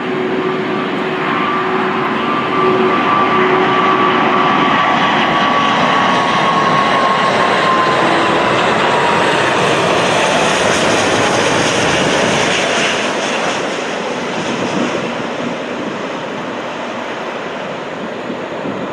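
Airbus A340-600 jet airliner on landing approach, its four Rolls-Royce Trent 500 turbofans running with a steady roar. A high fan whine slides down in pitch as the aircraft passes, and the roar then eases off as it moves away.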